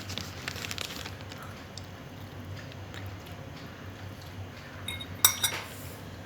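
Cutlery and dishes clinking: a few light clicks, then a short ringing clink about five seconds in.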